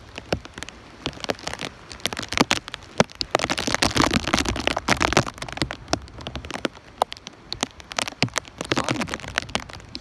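Wind-driven rain from a tropical-storm squall hitting the microphone, a dense run of sharp clicks over a rushing haze. It is heaviest from about three to five seconds in.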